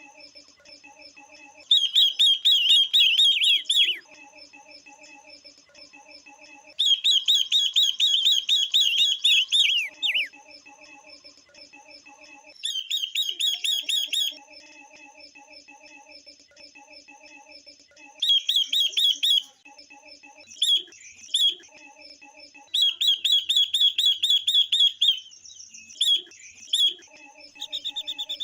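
Female silver-eared mesia and female red-billed leiothrix calling, a lure call used to stir up males. There are about eight bursts of fast, high, chattering notes, each lasting one to three seconds, with a quieter, lower, rapid pulsing in between.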